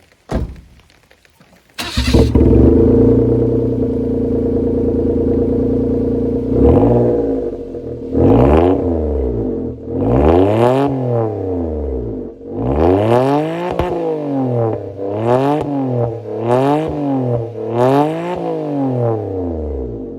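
The exhaust of a Nissan Roox's naturally aspirated K6A 660 cc three-cylinder engine, fitted with an aftermarket Samurai Power dual rear muffler. There is a short knock, then the engine starts about two seconds in and idles steadily. From a few seconds later it is revved up and down again and again, the blips coming quicker towards the end.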